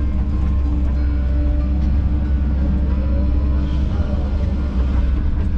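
Kobelco SK210 excavator's diesel engine running steadily with a low, even rumble.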